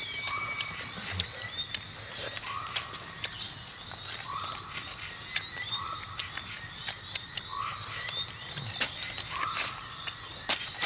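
An animal calling with a short, hooked note repeated about every second and a half. Scattered sharp clicks and crackles run through it.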